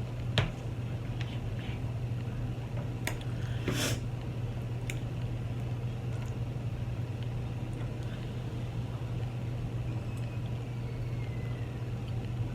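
A steady low hum runs under a few soft clicks and a short scraping rustle about four seconds in, as utensils and food are handled while sour cream is added to chili cheese fries.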